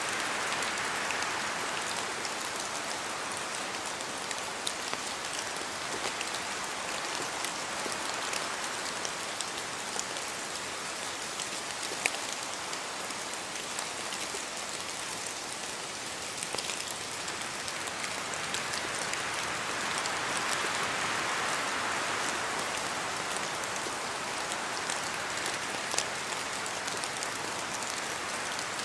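Steady rain falling on forest trees, with scattered individual drops ticking sharply; the hiss swells and eases gently a couple of times, as in gusts of wind.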